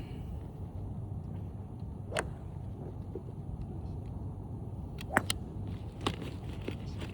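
Steady low rumble of background noise, broken by sharp clicks of golf clubs striking balls at a driving range: one about two seconds in and three more between five and six seconds, the first of those the loudest.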